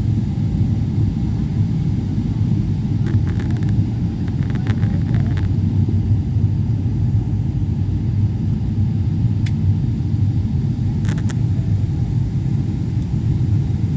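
Steady low rumble of airliner cabin noise in flight, with a few faint clicks.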